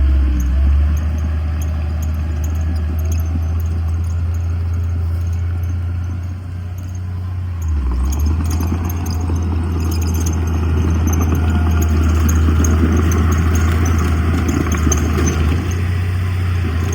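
Heavy diesel earthmoving machinery running with a steady low drone; about eight seconds in it grows louder, with more rattling and clatter over the engine.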